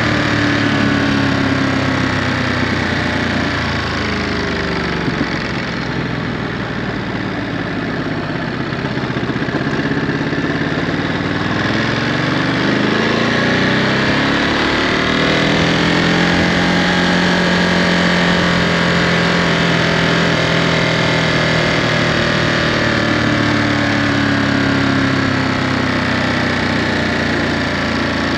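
Ducati Monster 937's 937 cc Testastretta V-twin through its stock Euro5 exhaust while riding. The engine note falls as the bike slows over the first several seconds, rises as it accelerates about halfway through, holds a steady cruise, then eases off near the end.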